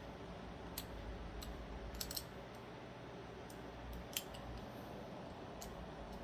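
Scattered small clicks and taps of knife parts and tools being handled during a folding-knife teardown, the loudest about four seconds in, over a low steady hum.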